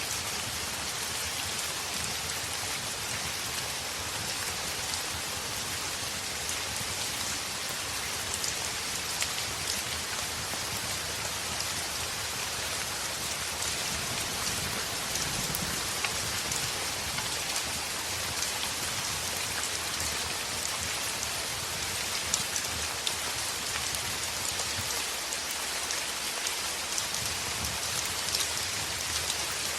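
Heavy rain falling on a window: a steady, even hiss with scattered sharp ticks and taps throughout.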